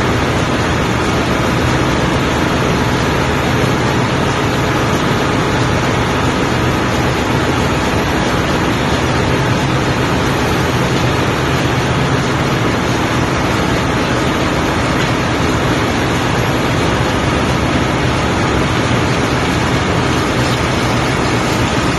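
Loud, steady drone of running machinery in a ship's engine room, holding constant with a faint low hum underneath.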